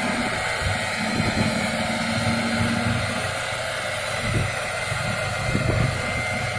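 A heavy truck's engine running steadily, with a low uneven rumble under a hiss of noise.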